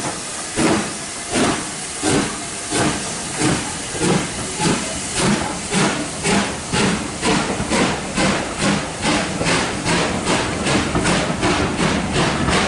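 LMS Black Five 4-6-0 steam locomotive 45212 working hard as it pulls away, its exhaust beats over a steady hiss of steam. The beats quicken steadily, from under a second and a half a second apart to about three a second, as the train gathers speed.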